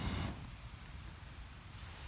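Split firewood burning in a small steel fire pit, crackling faintly with a few sharp pops. A low rushing noise cuts off about a third of a second in.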